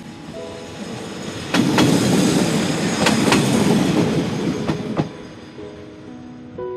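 A Tarumi Railway diesel railcar passing close by, its wheels clacking over rail joints in three pairs about a second and a half apart, over a loud rushing rumble that swells and fades.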